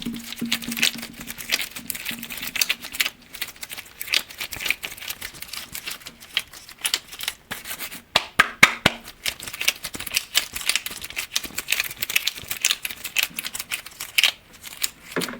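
Rapid, irregular tapping on glass objects, many light clicks a second without pause. A faint low ring carries on under the taps and fades out about halfway through.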